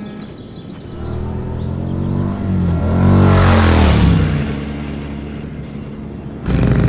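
A motor vehicle, most likely a motorcycle, passes by at speed: its engine note rises as it approaches, is loudest about three and a half seconds in, and drops as it goes away. Near the end a louder, steady engine sound cuts in abruptly.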